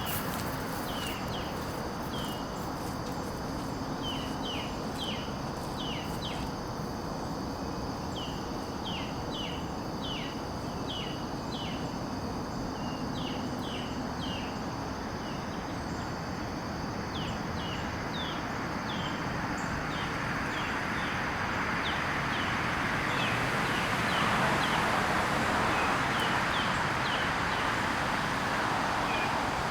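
Outdoor garden ambience: small birds give short, quick downward chirps again and again over a steady high insect hum. About two-thirds of the way in, a broad rushing noise swells, peaks, then eases off.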